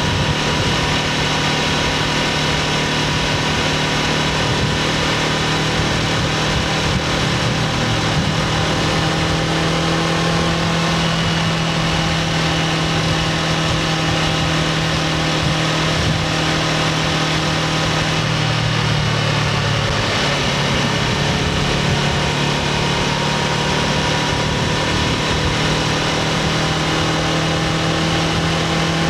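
Honda CBR500R's parallel-twin engine running through its stock exhaust, holding a steady pitch. The engine speed shifts a little about eight to ten seconds in and again near twenty seconds, over a steady rushing hiss.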